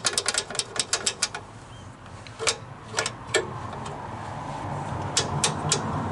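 Ratchet wrench clicking quickly for about a second and a half, then a few separate metallic clicks while working on a small mower engine's governor linkage. A steady rushing noise grows louder from about four seconds in.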